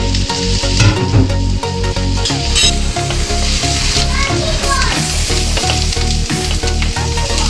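Chopped garlic sizzling in melted butter in a nonstick frying pan, stirred and scraped around with a wooden spatula.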